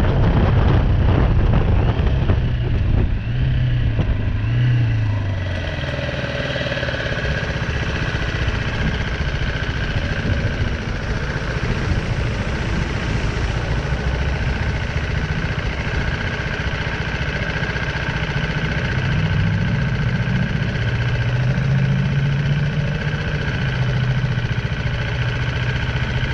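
BMW G310R's single-cylinder engine slowing with wind noise on the microphone, then running steadily at idle, its note rising for a few seconds towards the end.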